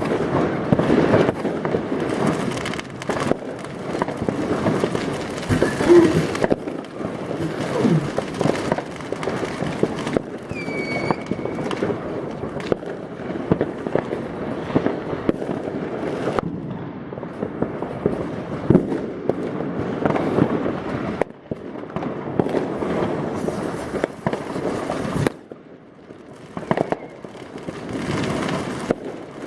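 Dense fireworks: many overlapping bangs and crackles of rockets and firecrackers going off across the rooftops, with a short falling whistle about ten seconds in. The barrage thins briefly about twenty-five seconds in.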